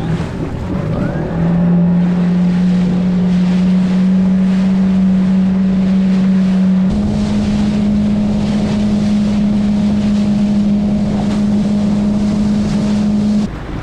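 Jet ski engine running under way at a steady speed, with wind on the microphone and water rushing past. The engine note rises a step twice, shortly after the start and about halfway through, and drops away suddenly near the end.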